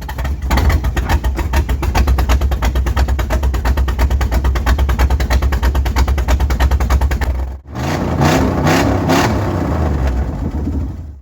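Built engine of a lifted 4x4, just cold-started on 110-octane race fuel, idling loud and lumpy with rapid exhaust pulses. About eight seconds in the sound dips briefly, and the engine then runs on with its pitch rising and falling.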